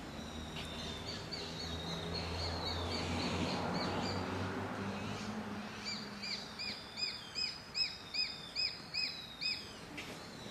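Juvenile Japanese sparrowhawk calling. A run of short, high repeated notes comes first, then about eight louder notes evenly spaced at roughly two and a half a second in the second half.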